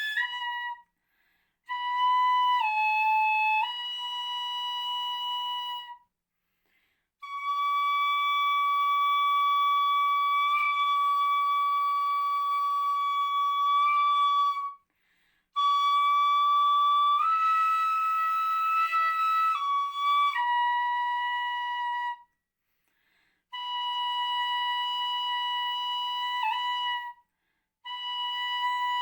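Ryūteki, the bamboo transverse flute of gagaku, playing a solo gagaku melody in sōjō mode: long held high notes with short steps and slides in pitch, in phrases broken by brief breath pauses. One held note past the middle sounds breathier.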